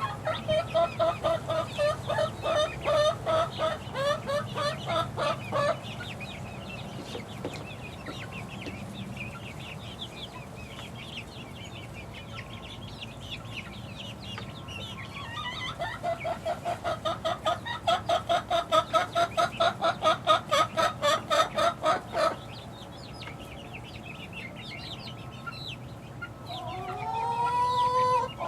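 Young six-week-old chickens chirping in long runs of quick repeated notes, about four a second, twice, with fainter high peeps in between. Near the end comes a longer rising call.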